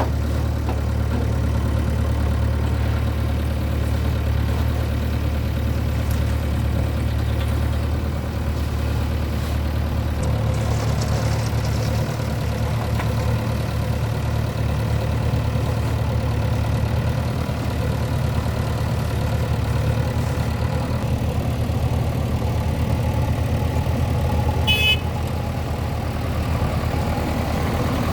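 Diesel engine of a JCB 3DX backhoe loader running at a steady, low speed, with a short high chirp near the end.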